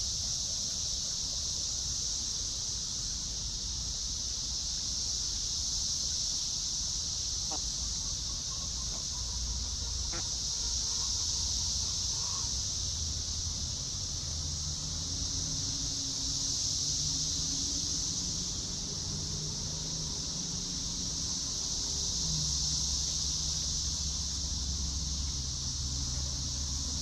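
Steady high-pitched buzzing of an insect chorus, with soft low clucking of hens joining from about halfway through.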